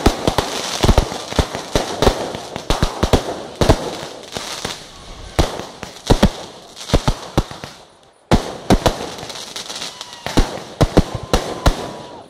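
Aerial fireworks display: shells bursting in quick, irregular succession, with crackling between the bangs. The bangs stop briefly about eight seconds in, then resume abruptly.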